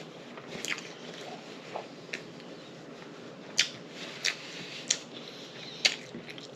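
A person chewing food close to the microphone, with a few wet mouth clicks and lip smacks at irregular intervals, about one a second.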